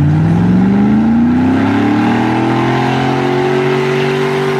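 A truck engine revving, its pitch climbing steadily for about four seconds before holding high near the end.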